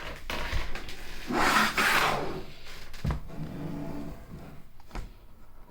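Handling noise from a heavy machined metal plate: a scraping slide, then a sharp knock about three seconds in as it is set down or bumped, with softer clatter and a small click after.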